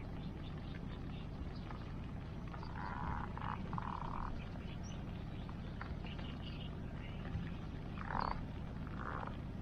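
Campfire burning in the rain beside a river: a steady low rush with small scattered crackles. Over it come short rasping calls, a pair about three seconds in and two more near the end.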